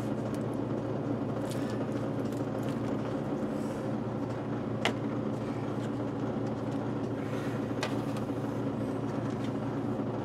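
A steady, low mechanical hum, with a couple of brief sharp clicks about five and eight seconds in.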